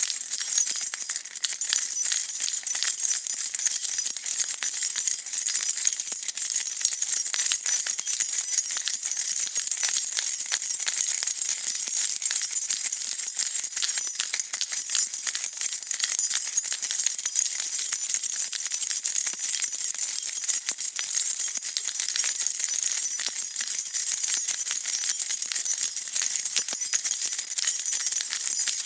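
A bunch of metal keys being shaken and jingling continuously, a dense, even clatter of small metal clinks.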